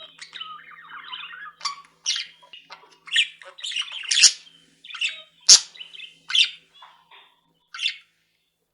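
Pet budgerigars chattering and squawking: a warbling chatter at first, then a run of short sharp chirps and squawks, the loudest about four and five and a half seconds in.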